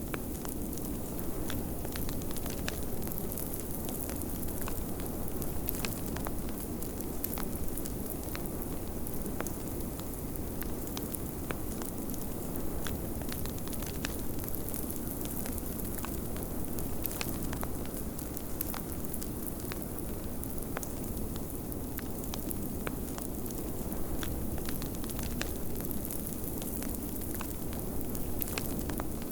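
Wood fire crackling with many small sharp pops, over a steady rushing blizzard wind.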